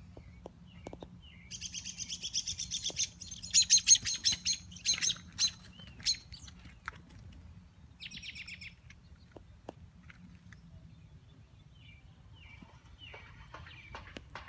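Small songbird singing: a rapid trill of high, repeated chirps that lasts a few seconds and is loudest about four seconds in. A shorter burst follows about eight seconds in, then a few scattered calls.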